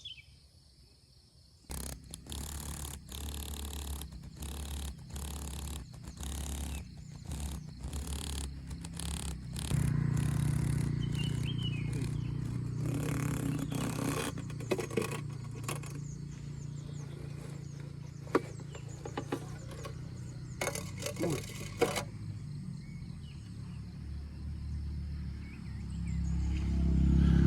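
Rustling, scraping and knocking from hands and the recorder being moved about, many short knocks for several seconds, then a steady low rumble with a few clicks that swells near the end.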